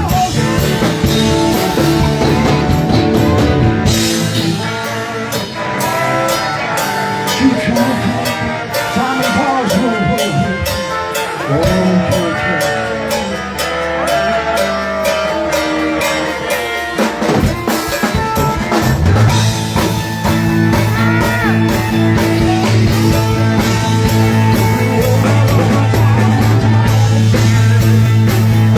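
A live rock band playing, with a drum kit and guitar keeping a steady beat.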